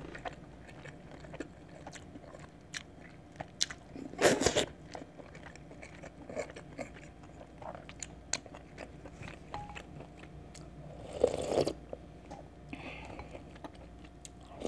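Close-up eating sounds of a person eating chicken porridge and boiled chicken: soft chewing with small wet mouth clicks and smacks. Two louder mouthfuls stand out, about four and about eleven seconds in.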